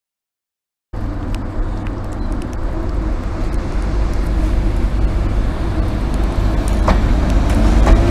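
Class 90 AC electric locomotive running light engine as it departs: a deep, steady rumble with a faint hum, growing steadily louder, with a few sharp clicks. It cuts in abruptly about a second in.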